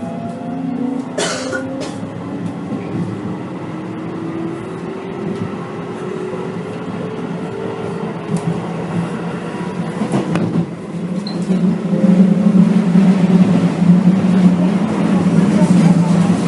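Keio 8000 series train with a Hitachi GTO-VVVF inverter, heard from inside the car: the inverter and motor whine climbs in pitch as the train accelerates, then fades under louder rail running noise. Two sharp clacks come about a second in and again about ten seconds in.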